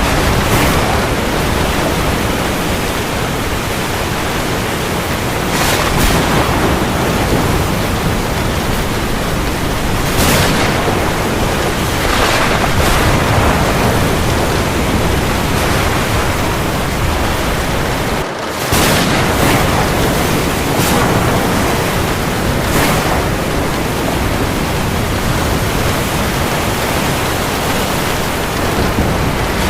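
Steady heavy rain, a dense even hiss, with a few brief louder swells and one short dip in level about two-thirds of the way through.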